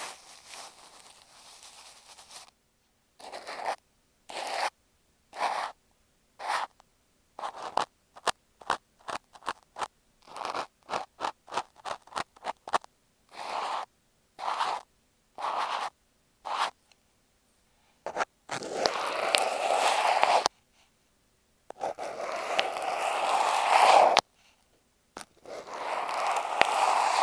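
Cotton swab scratching and rubbing directly on an earphone microphone: a run of short separate strokes, then three longer bouts of scraping near the end.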